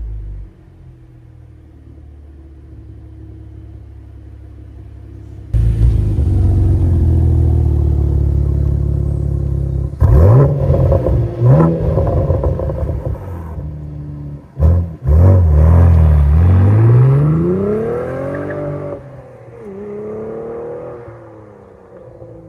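Cadillac CT4-V Blackwing's twin-turbo 3.6-litre V6 through a valved stainless catback exhaust: running quietly at first, turning suddenly much louder about five seconds in, two quick revs around ten and eleven seconds, then a long rising pull that peaks and falls away near the end.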